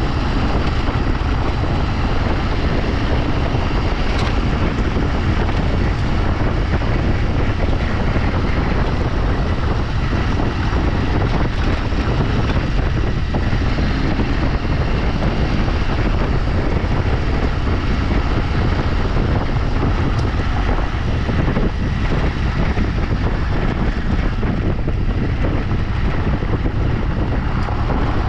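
Off-road motorcycle riding along, its engine running steadily under wind buffeting on the microphone.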